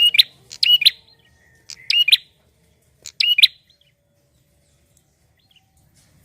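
Male prinia (prenjak) in full song: four short, loud, sharp chirping phrases in quick succession.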